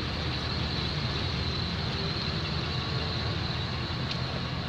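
Car engines running at low revs, a steady low rumble.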